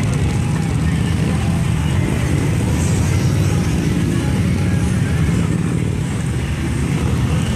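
Many Harley-Davidson V-twin motorcycle engines running together in a parade, a steady loud low rumble with no single bike standing out.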